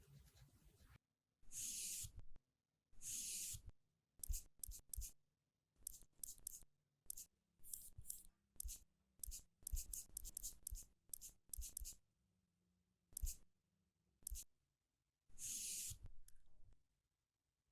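Close-miked makeup tools working cream onto a watermelon's rind. A few one-second brushing swishes and a long run of quick, irregular taps and clicks, typical of blending a base with a brush or sponge.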